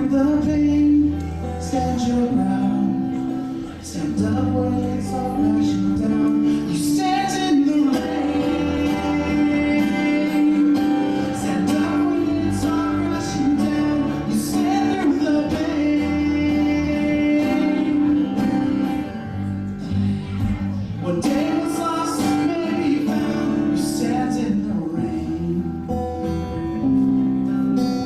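Live cover of a pop-rock ballad: a voice singing over a strummed acoustic guitar and a bass guitar.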